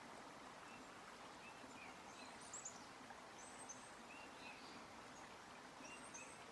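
Faint forest ambience: a soft, even rush of stream water with a few short bird chirps scattered through it.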